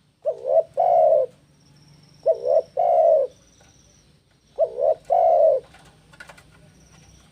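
Spotted dove (tekukur) cooing three times, each phrase two short quick notes followed by one longer rolling coo, repeated about every two seconds. This is the persistent territorial cooing of a male in breeding condition challenging a rival.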